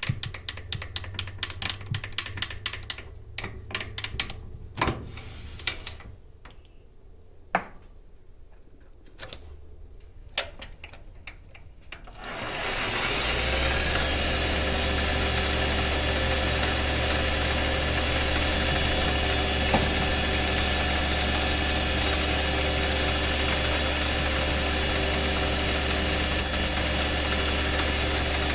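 Scattered clicks and taps, then about twelve seconds in a workshop machine's electric motor spins up and runs steadily with an even hum and whine.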